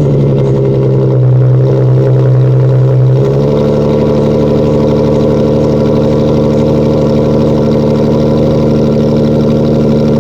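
Infiniti Q50 engine running steadily through a Remark exhaust with the mufflers deleted, a loud, even drone. Its note shifts slightly about three seconds in.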